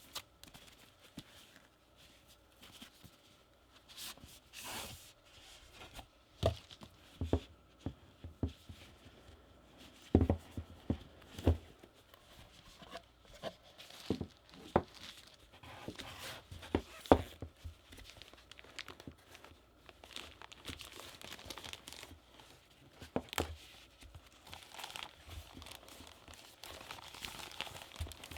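Packaging being handled and opened by hand: plastic and paper crinkling and tearing, with scattered sharp knocks and taps from the box and its contents.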